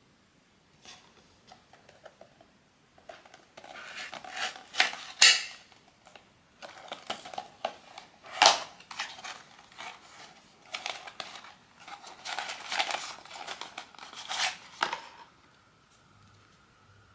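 Blind-box packaging being unwrapped and torn open, with repeated bursts of crinkling plastic wrap and sharp snaps of cardboard and film over about twelve seconds.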